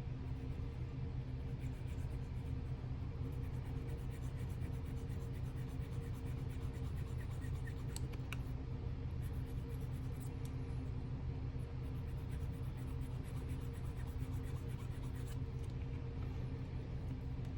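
A small drill bit turning slowly in a plastic model part, with faint scratching over a steady low hum.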